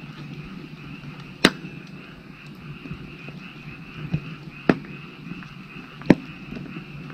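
Firewood burning, with four sharp pops and cracks from the logs, the loudest near the end. Under them a steady chorus of frogs calls.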